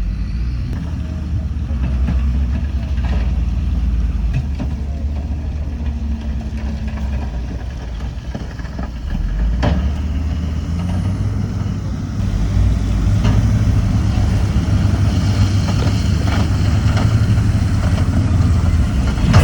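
Heavy diesel engine of earthmoving equipment running steadily, getting louder about twelve seconds in, with a few short knocks and clanks.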